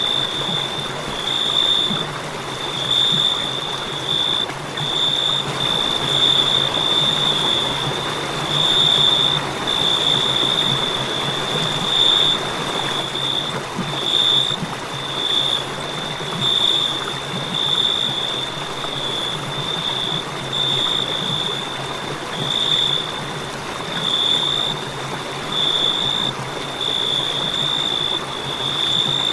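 Crickets chirping in a steady, high, pulsing trill, broken into bursts of about a second, over an even background hiss.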